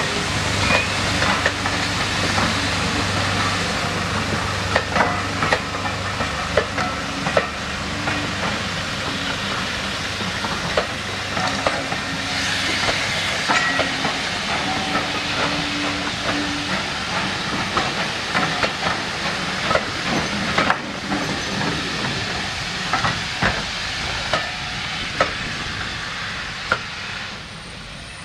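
Steam-hauled train of passenger coaches rolling past, its wheels clicking over the rail joints over a steady hiss. The sound drops away near the end as the last vehicle passes.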